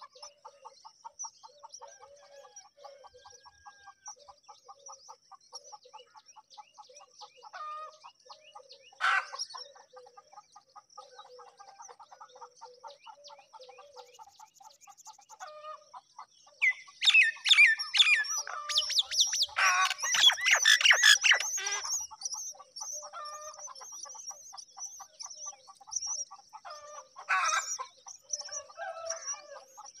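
Birds calling: a fast, even run of chirps under a steady high trill, short calls about nine seconds in and near the end, and a loud burst of harsh chattering calls a little past the middle.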